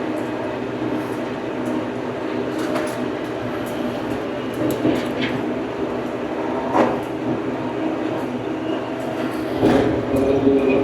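Farm tractor engine running steadily while bush hogging with a rotary cutter. A few knocks and rattles come about three, seven and ten seconds in.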